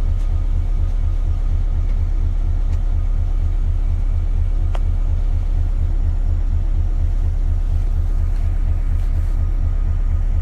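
Isuzu Erga KL-LV280L1 city bus's diesel engine running steadily, heard inside the cabin as an even, low, pulsing rumble. A single sharp click comes about halfway through.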